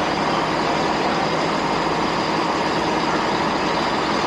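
Steady engine noise of an idling train, an even, unchanging drone.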